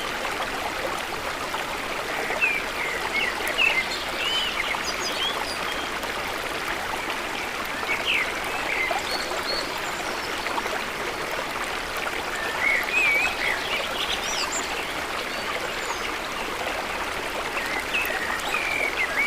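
Small birds calling in short, scattered chirps over a steady rushing background hiss.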